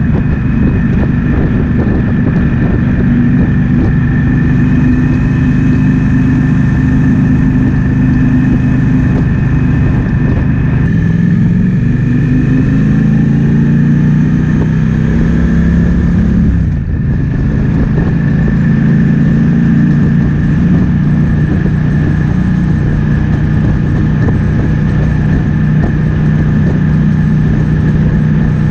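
Triumph Speed Twin 1200's parallel-twin engine running on the move, with wind noise on the microphone. About eleven seconds in the engine note climbs as it accelerates. It cuts out briefly just before seventeen seconds, then settles back to a steady pull.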